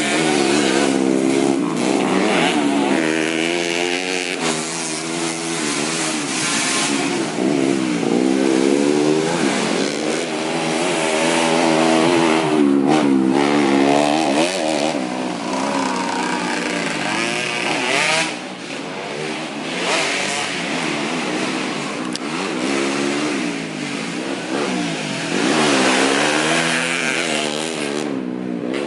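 Several motocross dirt bikes racing, their engines overlapping and revving up and down in pitch over and over as the riders accelerate and back off.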